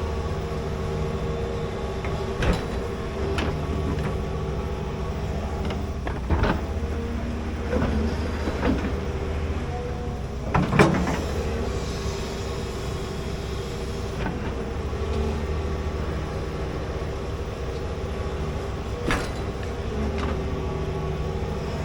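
Large excavator's diesel engine running steadily while digging a trench, with several sharp metal clanks and knocks, the loudest about eleven seconds in.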